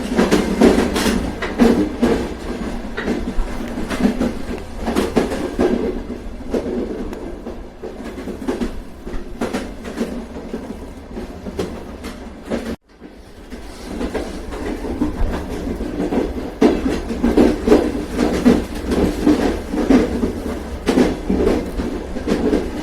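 Train running on rails: a steady low rumble with irregular clickety-clack of the wheels over rail joints. About thirteen seconds in the sound cuts out for a moment, then resumes.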